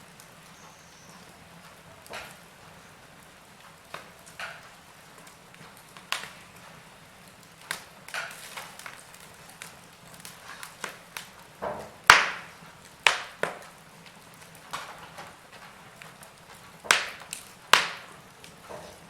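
Log fire crackling: irregular sharp pops and snaps of burning wood, coming thicker in the second half with one loud snap about twelve seconds in, over a faint steady hiss.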